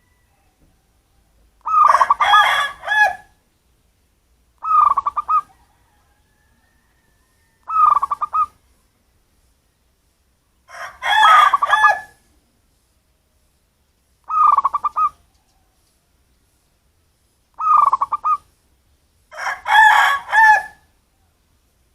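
Zebra doves (wild local perkutut) cooing in repeated phrases, each a quick run of staccato notes about a second long, with silent gaps between. Three of the phrases are louder and denser than the rest.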